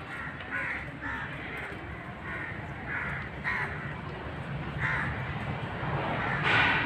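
Birds calling outdoors: short calls repeated at irregular intervals, the loudest about six and a half seconds in, over a steady low rumble.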